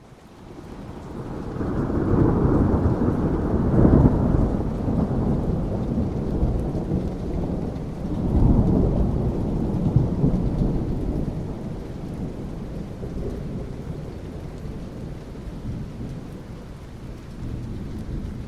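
Thunder rolling over steady rain: a deep rumble swells over the first couple of seconds, peaks about four seconds in, rolls again around eight to ten seconds in, then fades back under the rain.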